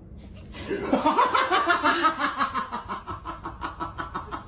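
A person laughing: a long run of quick, even laughs that starts about half a second in and gradually fades.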